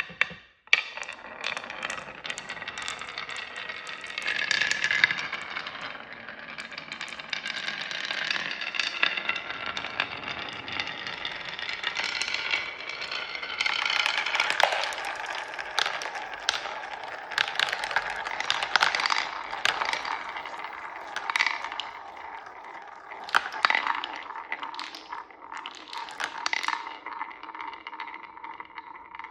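Marbles rolling and rattling down a marble run track, with a steady rolling rumble and many sharp clicks and clacks as they hit the track and each other.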